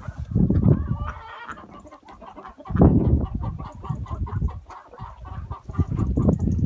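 Chickens clucking, with loud low rumbling bursts about half a second in, around three seconds in and near the end.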